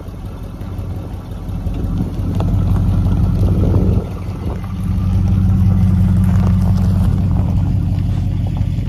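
1969 Ford LTD running down the road, its engine note rising about two seconds in, dropping back briefly at four seconds, then pulling louder and holding steady.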